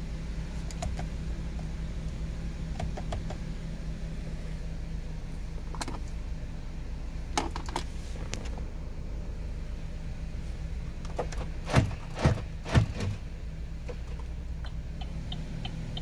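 2009 Lacetti's engine idling steadily, heard from inside the cabin. Scattered clicks and knocks sit over it, with three heavy thumps in quick succession about three-quarters of the way through.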